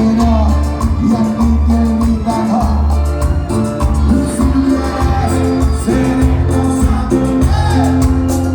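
Cuarteto band playing live: a steady bass beat under keyboard and singing.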